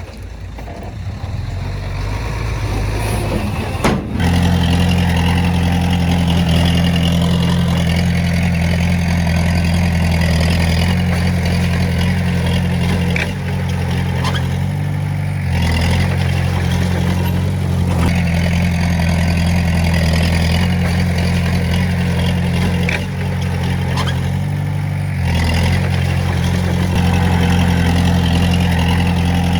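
Heavy-equipment diesel engine running steadily with a deep, even note. It comes in abruptly about four seconds in, and its note shifts briefly twice as the load changes.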